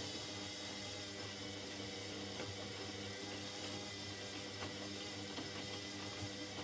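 Indesit 71252 washing machine running, a steady hum with a faint even wash of noise above it.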